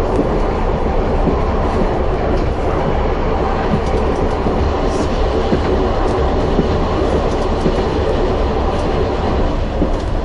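Narrow-gauge train running along the track: a steady rumble with a few faint clicks from the wheels on the rails.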